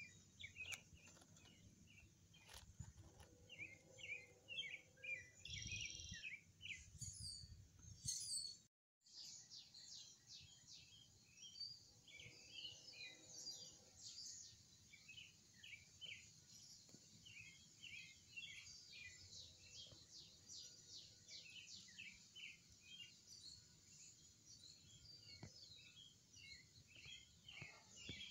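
Wild birds chirping and calling: many short chirps and quick falling notes, faint, with a brief dropout just before nine seconds in.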